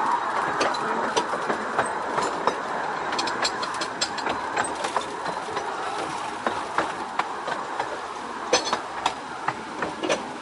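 Carriages of a 15-inch gauge miniature railway train rolling along the track: a steady rumble and rush with frequent sharp, irregular clicks and clacks from the wheels on the rails, slowly growing quieter.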